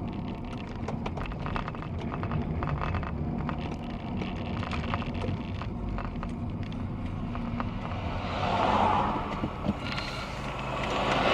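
Honda Prelude's 2.2-litre H22A8 VTEC four-cylinder engine running steadily, heard muffled through a partly covered camera microphone, then growing louder in a surge about eight seconds in and again near the end.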